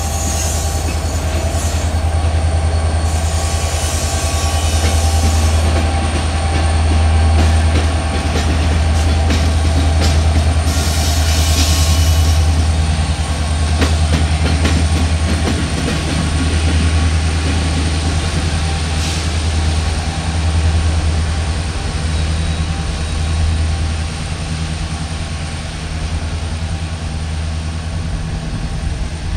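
Loaded grain train of covered hopper cars rolling past, with a steady low rumble of steel wheels on rail and scattered wheel clicks. High wheel squeal comes twice in the first half. About midway the rear distributed-power locomotive, an EMD SD70ACe diesel, rumbles by, and the sound begins to fade near the end.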